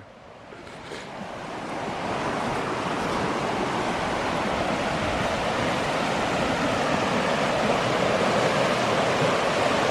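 Rushing river water: a steady rush that builds over the first couple of seconds and then holds. The river is running high and fast as the water level rises.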